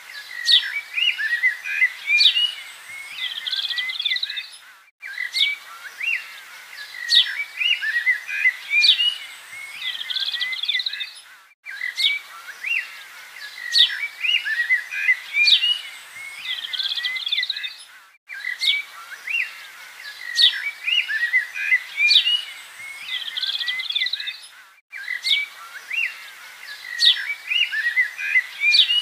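Small birds chirping and twittering in short rising notes, a looped recording: the same few seconds repeat about every six and a half seconds, each repeat set off by a brief break.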